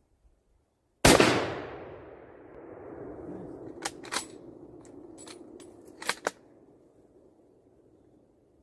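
A single .30-06 rifle shot from a Mauser 98 bolt-action about a second in, its report fading slowly over a few seconds. It is followed by a quick run of sharp metallic clicks as the bolt is worked to eject the case and chamber the next round.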